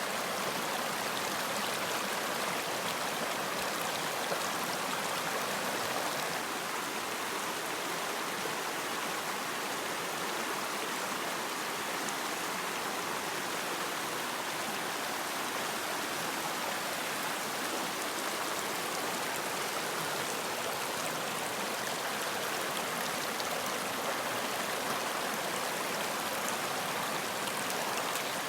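Running water flowing steadily, an even rushing wash that eases slightly about six seconds in.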